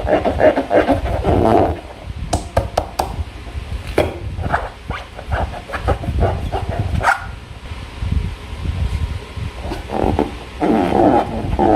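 Hands working slime and rubber balloons: irregular sticky squelches, small clicks and rubbing, with a constant low rumble underneath.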